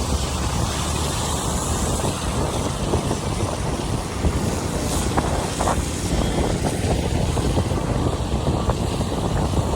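Steady road noise of a vehicle driving on a wet road in the rain: tyres on wet asphalt and a low engine rumble, mixed with wind on the microphone.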